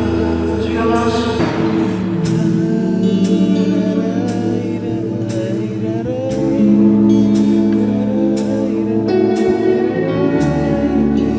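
Worship band music: held keyboard chords over a bass line, with a light cymbal tick keeping a steady beat about twice a second and a voice singing a wordless melody line.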